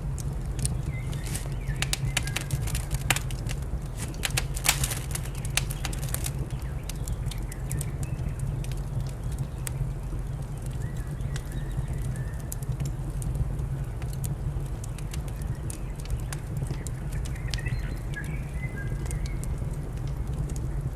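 Wood fire crackling with sharp pops, densest in the first few seconds, over a steady low rumble, with faint short bird chirps now and then.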